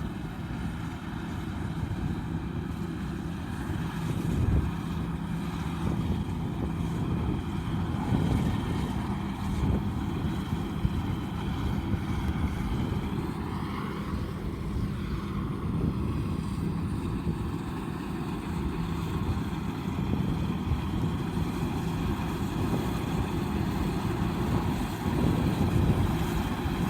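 Combine harvester running steadily in a rice field, with a brief rise and fall in pitch about halfway through, and wind on the microphone.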